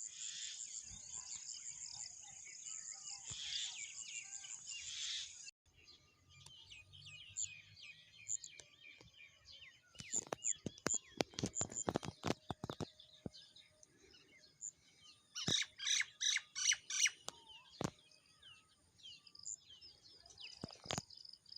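Wild birds chirping and calling: a dense, busy chorus that cuts off abruptly about five seconds in, then scattered separate chirps and sharp calls, with a quick run of repeated notes about two-thirds of the way through.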